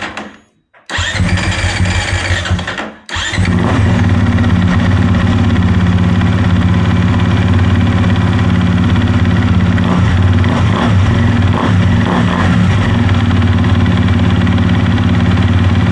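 Honda CRF250RX's single-cylinder four-stroke engine being started after an oil change, run briefly to pump fresh oil into the dry new filter. After a short burst it runs roughly for about two seconds, cuts out for a moment around three seconds in, then catches again and idles steadily.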